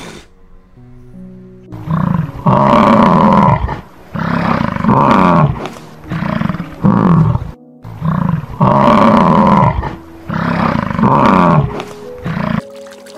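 A large animal's deep calls with falling pitch, a string of about ten, each under a second to about a second and a half long, over soft background music; the run of calls repeats itself about halfway through.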